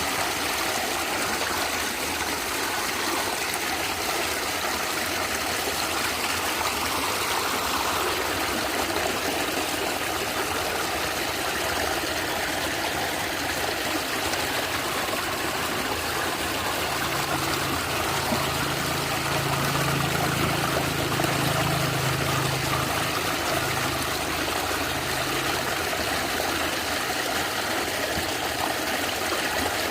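A stream gurgling and trickling steadily. A low hum comes in a little past halfway and fades out several seconds later.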